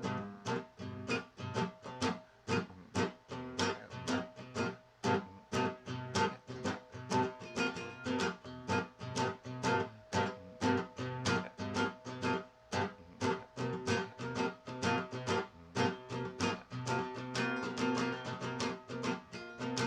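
Acoustic guitar strummed in a steady rhythm, about three strokes a second, playing chords.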